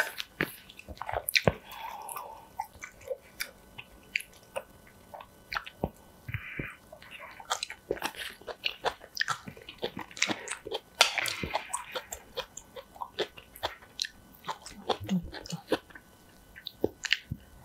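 Close-miked mouth sounds of a person chewing spicy Buldak stew-noodle broth with rice mixed into it: wet, irregular sharp clicks and smacks, with a louder stretch of chewing about eleven seconds in.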